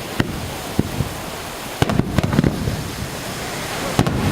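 Fireworks display going off over the sea: a run of sharp bangs from bursting shells, thickest about two seconds in, over a steady wash of noise.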